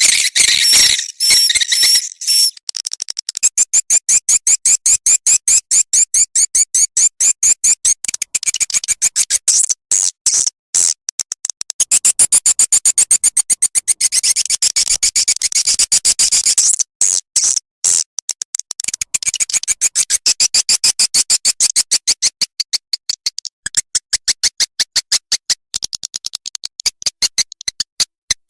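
Swiftlet lure call played from a recording: fast, rhythmic trains of high-pitched twittering chirps and clicks, pausing briefly a few times.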